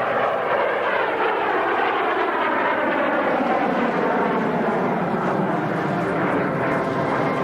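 Folland Gnat jet trainer in a display flypast, its turbojet running loud and steady, with the whine gliding down in pitch as it passes.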